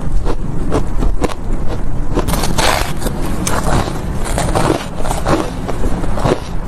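Close-miked chewing of ice chunks coated in powdered milk and matcha: a steady run of sharp, crunchy bites, a few a second.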